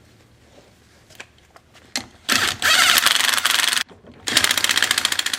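Impact wrench run in two bursts of about a second and a half each, hammering rapidly, driving a socket through a chrome 1/2-to-3/8 adapter, preceded by a few light clicks.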